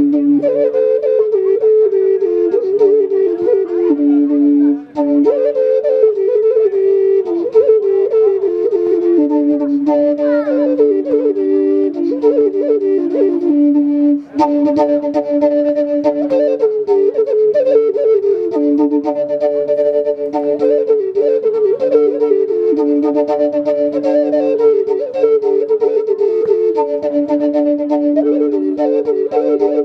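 Live woodwind music: a flute-like melody of held and ornamented notes over a steady drone note, with two short breaks for breath.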